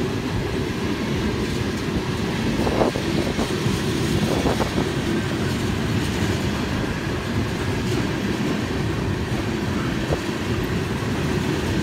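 Tank cars of a long freight train rolling past close by: a steady rumble of steel wheels on the rails, with a couple of brief sharper metallic sounds a few seconds in.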